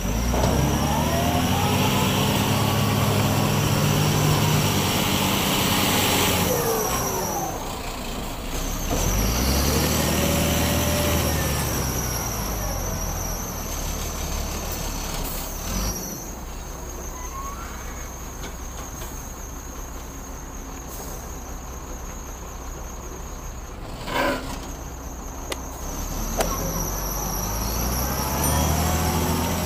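Heavy diesel engine revving up and falling back again several times, steadier and quieter in the middle stretch. A brief sharp sound comes about 24 seconds in.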